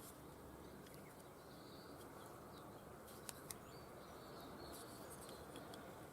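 Near silence: faint background hiss with a few faint high chirps, and two light clicks a fraction of a second apart about three seconds in.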